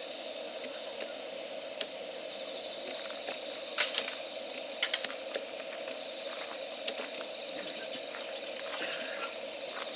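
Wood campfire burning in a fire stand with a steady hiss and scattered small crackles, with sharp pops about four and five seconds in.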